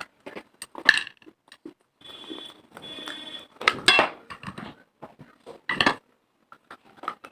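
Pieces of baked clay pot being bitten and crunched: sharp cracks about four times, with a stretch of gritty grinding in between.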